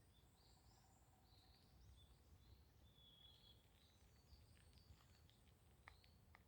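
Faint wild birdsong: several birds chirping and calling in short phrases over a low rumble, with a few short clicks near the end.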